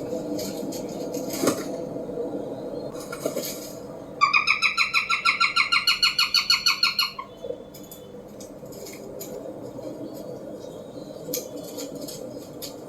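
Peregrine falcon giving a rapid, harsh repeated cacking call, about seven notes a second for roughly three seconds, starting about four seconds in. A steady low background hum and scattered clicks run around it.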